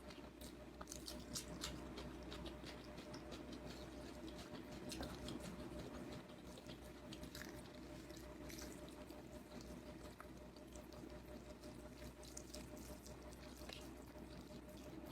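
Close-up eating sounds: faint, irregular wet clicks and smacks of chewing, over a low steady hum.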